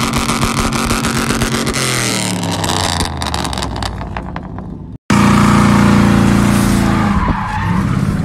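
Mercury Grand Marquis 4.6-litre V8 held at high revs, then let go about two seconds in, its pitch falling as the revs wind down. After a cut about five seconds in, the V8 runs steadily at high revs, heard from inside the car, with the rear tyres spinning in a burnout.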